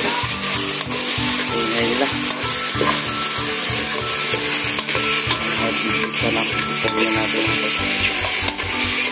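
Sliced onions, garlic and tomatoes sizzling in hot oil in a metal pot, the steady frying hiss broken by a few clicks and scrapes as a metal ladle stirs them against the pot.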